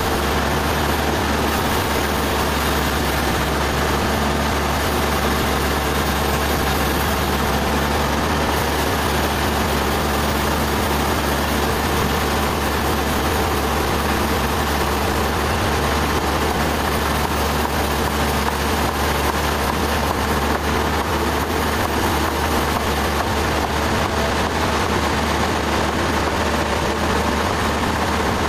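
Sawmill machinery running steadily: a constant engine drone with a low hum and a dense mechanical rush over it, unchanging throughout.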